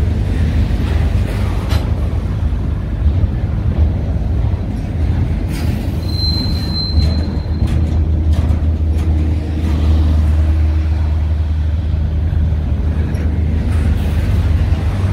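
Train passing close by: a steady heavy rumble with scattered wheel clicks, and a brief high wheel squeal about six seconds in.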